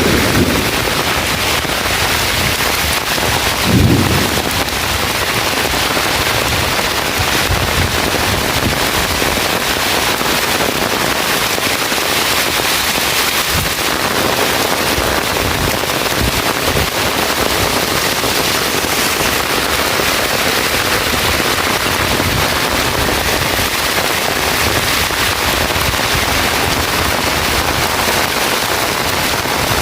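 Heavy rain falling steadily, a dense crackling patter of drops. A brief low thump sounds about four seconds in.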